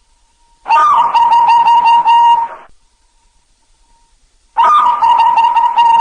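Zebra dove (perkutut) cooing. It gives two loud, rapidly stuttering coo phrases of about two seconds each: one starts just under a second in, and the next begins near the end.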